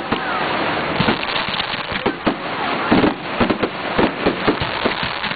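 Fireworks display: a dense, continuous run of bangs and crackling from aerial fireworks, with louder clusters of reports about two and three seconds in.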